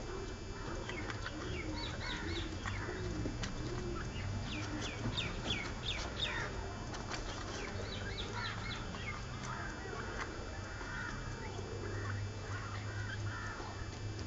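Birds calling. A run of low, arching cooing notes comes in the first few seconds, then several series of high, quick downward-sliding calls through the middle, all over a steady low hum.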